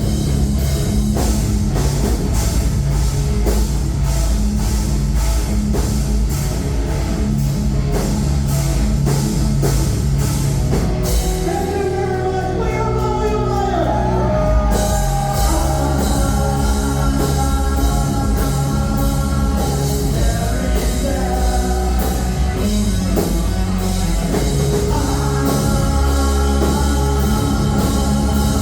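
A live heavy rock band playing loud: a steady drum beat with cymbals, bass and guitars. The cymbals drop out for a few seconds about eleven seconds in, as a melody line comes to the front, which returns again near the end.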